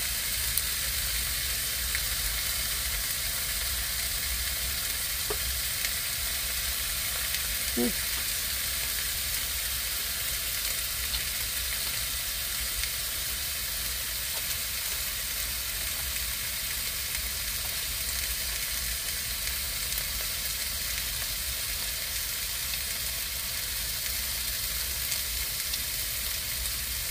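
Meat frying in a pan, a steady sizzle with no letup, with a couple of faint clicks.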